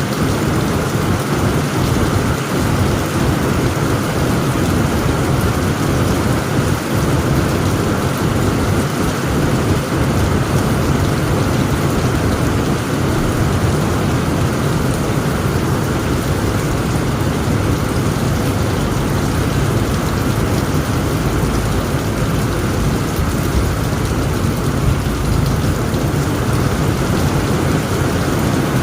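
Heavy rain pouring steadily on a tent roof, a dense even hiss, with a continuous low rumble of thunder underneath that swells in the last third.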